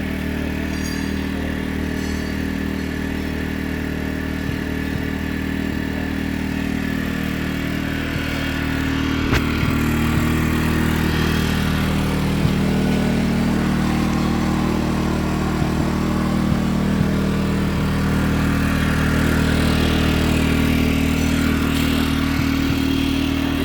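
Tsuzumi TIG 2000 IS petrol generator's small engine running steadily, getting a little louder about eight seconds in, with a few light clicks.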